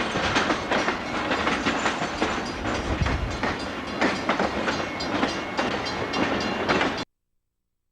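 Canadian Pacific freight train's cars rolling slowly past, their steel wheels clicking and clattering over the rail joints and the diamond crossing. The sound cuts off abruptly to silence about seven seconds in.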